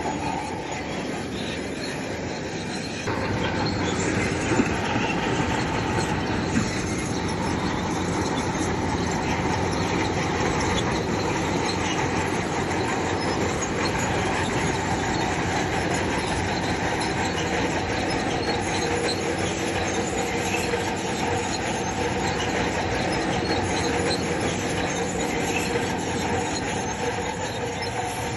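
Bulldozer working, its steel crawler tracks squealing and clanking over the engine's steady running; it gets louder about three seconds in.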